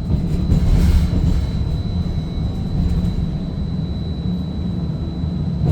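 Seattle First Hill Streetcar running between stops, heard from inside the car: a steady low rumble of wheels on rail with a thin high whine, and a brief hiss about a second in.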